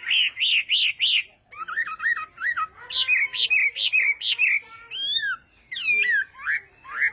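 Chinese hwamei singing: runs of quick repeated whistled notes, about five to a run, each run on a new pattern, with a short break about a second and a half in and sweeping rising and falling whistles near the end.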